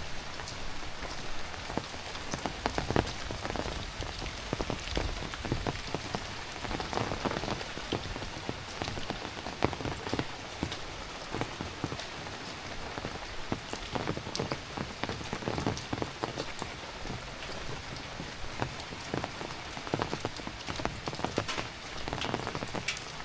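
Heavy rain falling steadily, with a dense patter of sharp drop hits on nearby surfaces.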